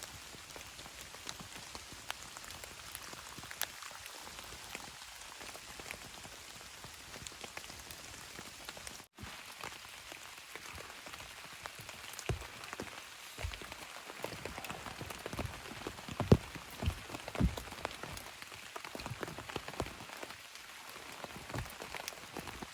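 Steady rain falling, with individual drops ticking and pattering on a tarp; heavier, louder drop hits come in the second half.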